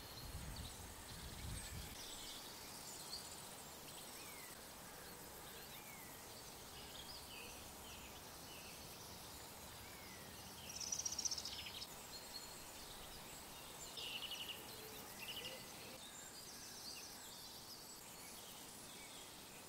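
Faint summer meadow ambience with scattered short bird chirps, and a brief louder burst of twittering about eleven seconds in and again around fourteen seconds.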